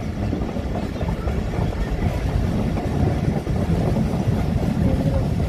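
Passenger train running at speed, heard from inside the carriage by the window: a steady low rumble and rattle of wheels and coach, with wind buffeting the microphone.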